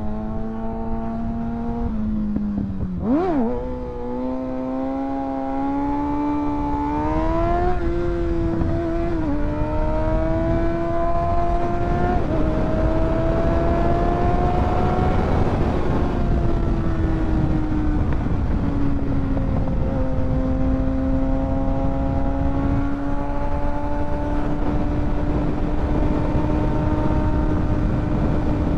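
Kawasaki ZX-6R 636 inline-four engine under way: it revs up and drops back in pitch several times through the first dozen seconds as it shifts up, with a quick dip and rise about three seconds in, then holds a nearly steady cruise. Wind rushes over the microphone throughout.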